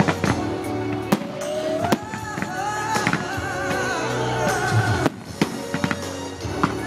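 Fireworks bursting, a sharp bang every second or so, over loud music playing across the display.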